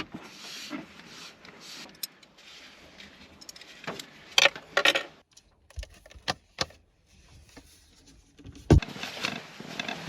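Things being tidied away by hand: rustling, clinking and several sharp knocks, with a heavy thump near the end.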